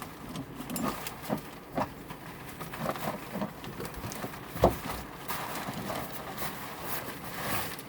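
Handling noises as a camp shower and gear are moved about and stowed: scattered light knocks and rustling, with one louder thump a little over four and a half seconds in.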